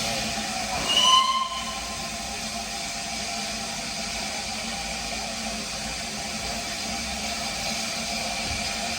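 Steady hiss from a steam locomotive with a low hum beneath it, and a short high whistle about a second in.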